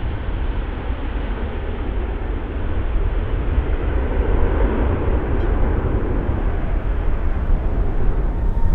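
Jet airliner engines rumbling steadily and growing gradually louder.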